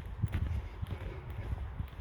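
Footsteps of a person walking along an outdoor track, a run of dull low thumps with faint scuffs.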